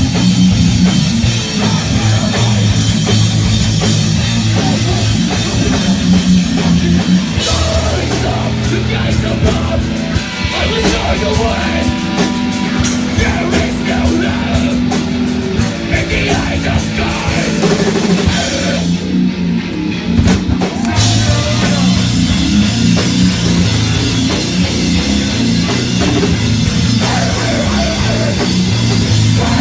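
A live rock band plays loud and heavy, with distorted guitars, bass and a full drum kit. Busy, fast drumming comes in about a quarter of the way through. About two-thirds through, the cymbals and high end briefly drop away, then the full band crashes back in.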